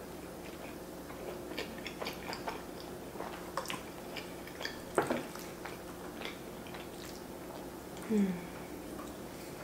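Close-up mouth sounds of a woman chewing a mouthful of fettuccine alfredo: a run of small wet clicks and smacks, loudest about five seconds in. Near the end comes a short "mm" hum that falls in pitch.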